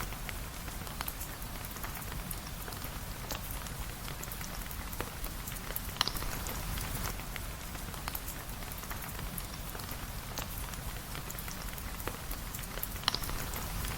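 Steady rain, with small crackles and two sharp pops: one about six seconds in, one near the end.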